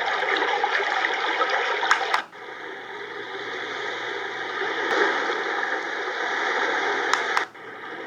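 A travel white noise machine's small speaker plays a water-trickling sound track. About two seconds in, a button click switches it to another ambient noise track, and a click near the end switches it again. Each switch drops the sound for a moment before it fades back up.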